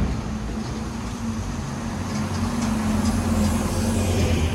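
A motor vehicle passing close by, with a steady low engine hum that grows a little louder over the last couple of seconds.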